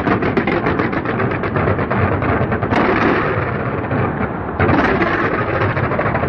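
A fireworks display going off in rapid succession: a fast crackle of many small reports over a constant rumble of bangs, surging louder about two-thirds of the way through.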